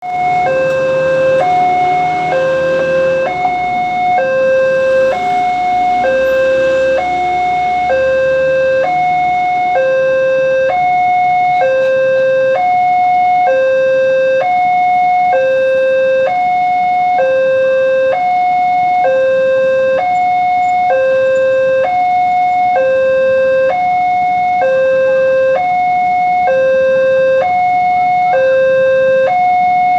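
Indonesian railway level-crossing warning alarm sounding a steady two-tone electronic signal, a higher and a lower tone alternating about once a second, warning that a train is approaching. A low engine rumble runs underneath for roughly the first ten seconds.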